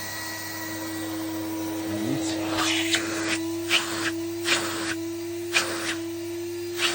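A roughly 45-year-old Zelmer vacuum cleaner running, its motor giving a steady hum. From about two seconds in, a string of short, sharp, hissing bursts comes in over the hum at uneven intervals.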